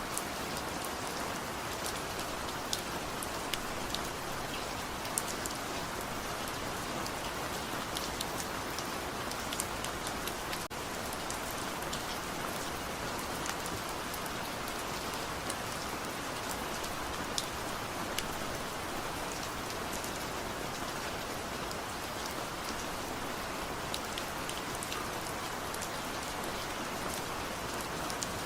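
Steady gentle rain falling on a surface, an even hiss with scattered individual drop ticks, no thunder.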